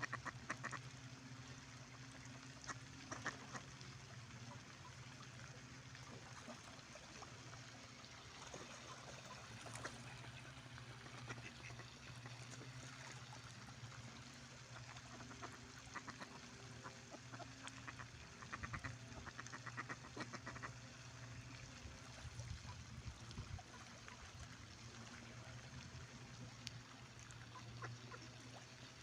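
Ducks quacking faintly in short scattered bursts over a steady low hum.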